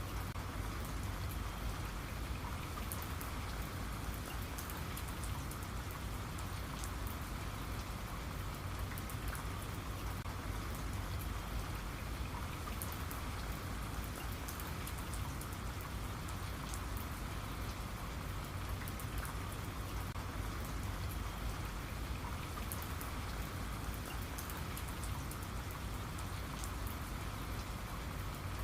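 Steady rain falling, with many small drops pattering on a surface over a low rumble.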